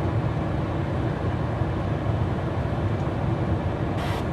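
Steady low rumble inside the cab of a Ford F-150 pickup, the sound of the truck running at idle. A brighter hiss comes in near the end.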